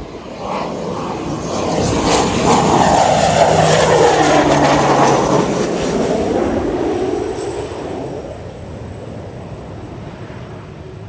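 A small airplane flying low past on its way in to the airstrip. Its engine swells to a peak a few seconds in, then fades away with a falling pitch as it passes.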